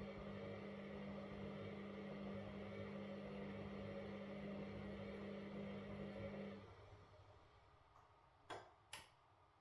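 Washing machine motor running with a steady hum, then winding down and stopping about two-thirds of the way through, as in the pause between drum turns; two sharp clicks follow about two seconds later.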